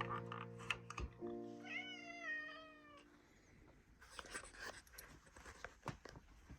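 A cat meows once about two seconds in, a single call that rises and then falls, over background music of held chords that stops about three seconds in. Faint clicks and rustling follow.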